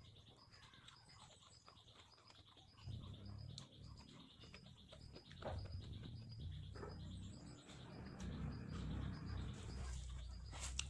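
A bird chirping over and over, a short high chirp repeated at an even pace, heard faintly. Low rumbling and scattered small clicks of handling run underneath, growing louder in the second half.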